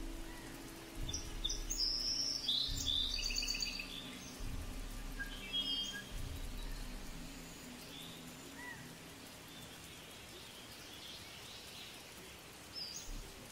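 Faint background ambience with scattered short, high bird chirps, busiest in the first few seconds and thinning out toward the end, with a few soft low thuds early on.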